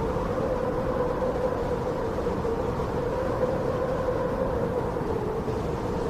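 High-mountain wind: a steady rush of noise with a low howling tone that wavers slightly in pitch.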